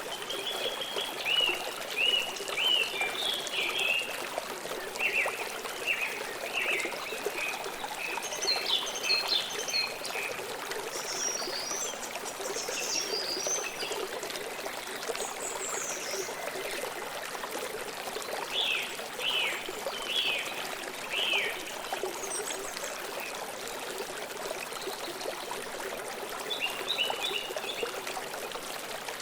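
A river flowing steadily with a constant rushing trickle, while songbirds chirp in short, repeated runs of quick notes that come and go over it.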